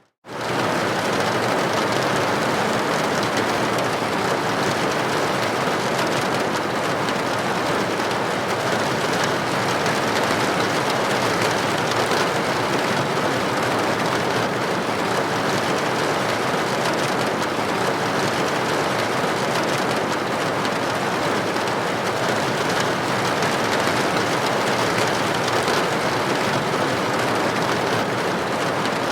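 Steady rain pattering against a building window, an even hiss of droplets. It drops out for a moment at the very start, then fades straight back in.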